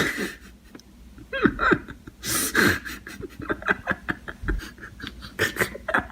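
A person laughing breathlessly and panting in short bursts.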